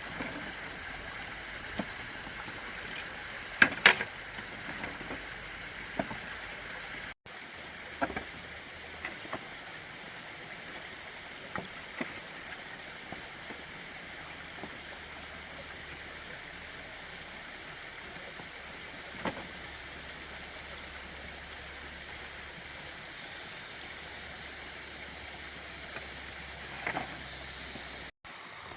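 Steady outdoor hiss like running water, with scattered short knocks and taps; two loud knocks come close together about four seconds in.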